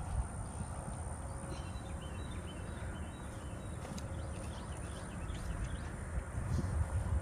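Electric lawn mower running, with an uneven low rumble and many small irregular thumps.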